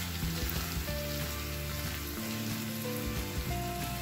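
Freshly added raw goat heart pieces frying with onions and green chillies in hot oil, sizzling steadily as they are stirred with a spatula. Soft background music with long held notes plays underneath.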